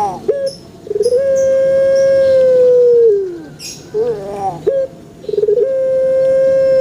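A male puter (ringneck or Barbary dove) cooing. Twice, a quick stuttering lead-in runs into a long, steady coo of about two seconds that drops in pitch at the end. A shorter falling note comes between the two coos, and a few faint high chirps sound near the start.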